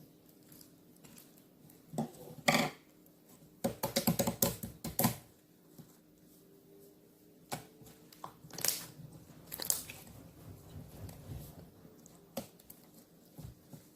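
Handmade glitter slime being squeezed, poked and stretched by hand, giving irregular sticky pops and crackles. There is a dense, rapid run of them about four seconds in, then scattered single pops.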